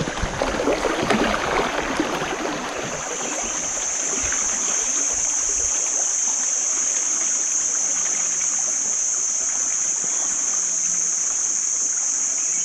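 River water rushing and splashing during a raft ride. About three seconds in, a loud, steady, high-pitched insect chorus swells up and holds.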